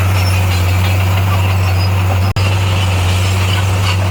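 Heavy equipment's diesel engine running steadily with a strong low hum, cut by a split-second gap a little past halfway.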